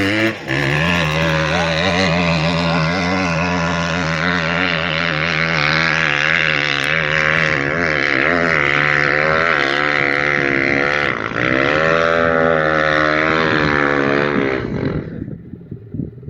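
Off-road vehicle engine running under changing throttle, its pitch repeatedly rising and falling. The engine sound cuts off suddenly near the end.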